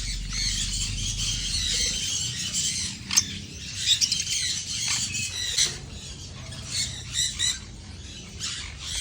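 Aviary parrots chattering, a steady jumble of high chirps and squawks with a few sharper, louder calls in the middle.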